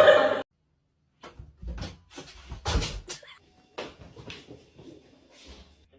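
A loud noise cuts off abruptly about half a second in. A little later comes a string of irregular knocks and clatters, about nine over four seconds, the loudest near the middle.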